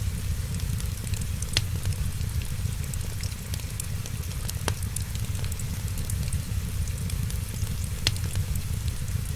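Fireplace fire crackling, with three sharp pops among many small ticks, over a steady low rumble and a hiss of rain.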